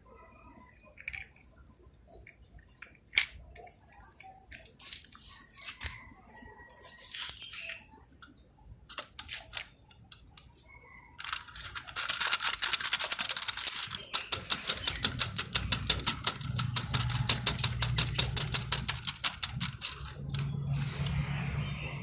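Toys being handled, with scattered clicks and knocks. About halfway in, a louder rapid clicking rattle starts, about five clicks a second, with a low hum under it.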